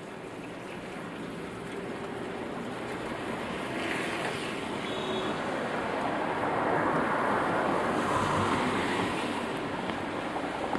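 Rain with a vehicle's tyres hissing on the wet road as it passes. The hiss swells gradually, is loudest about seven to nine seconds in, and eases off near the end.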